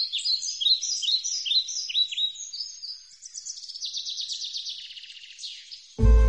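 A songbird singing: a string of quick down-slurred chirps, then a fast trill. Music with a deep bass comes in suddenly near the end.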